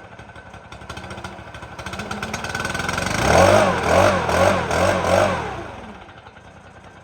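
Stihl BR600 backpack blower's 4-MIX engine idling low, then revving up with the pitch swinging up and down about four times before settling back to idle. The idle is set too low, and the owner wants to bring it up a little.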